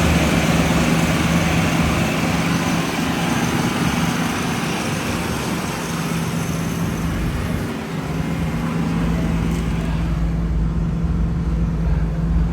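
A 1967 Ford Mustang's inline-six engine running steadily, with a steady hum. A deeper low rumble comes in about nine seconds in.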